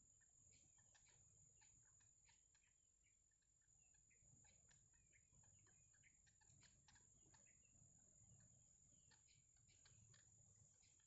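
Faint, irregular ticking and chirping calls of green heron nestlings, over a steady high-pitched whine.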